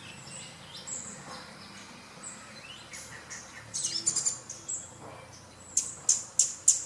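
Small birds chirping: scattered high chirps, then a run of short, sharp chirps about three a second near the end.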